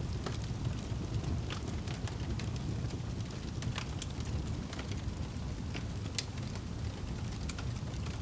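Wood fire crackling in a fireplace: a steady low rumble of flames with scattered sharp pops and snaps, a few louder ones about four and six seconds in.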